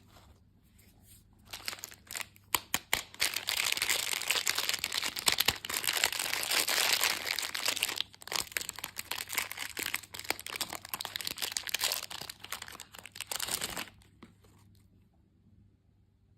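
Crinkly plastic candy packaging being handled and torn open: a dense crackle from about a second and a half in, stopping about fourteen seconds in.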